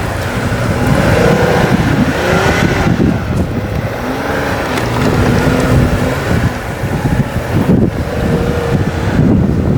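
Jeep Gladiator's engine revving up and down under hard driving while drifting through deep snow.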